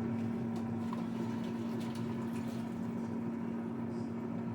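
A kitchen appliance humming steadily on one constant low tone, with a few faint light ticks in the first couple of seconds.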